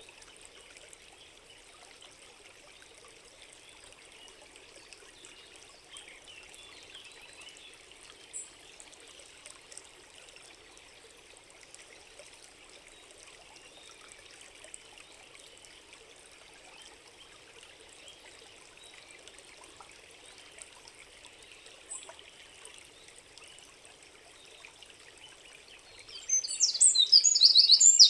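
A small stream trickling faintly and steadily, with an occasional faint high chirp. Near the end a songbird starts singing loudly close by, in rapid trills and sharp notes.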